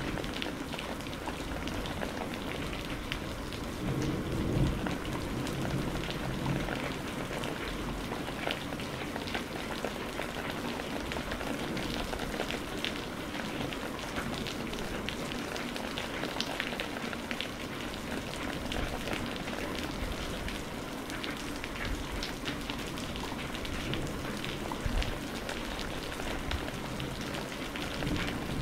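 Steady rain falling on a hard surface, with many separate drops pattering through it. A short low rumble rises briefly about four seconds in.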